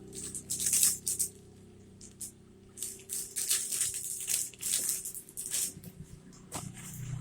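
Irregular crinkling and rattling, like plastic parts and their packaging being handled, over a faint low steady hum.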